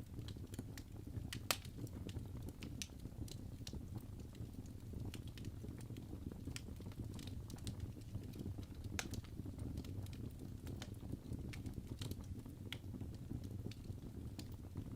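Logs burning in a fireplace, crackling with irregular sharp pops over a steady low rumble of the flames. One pop about a second and a half in is louder than the rest.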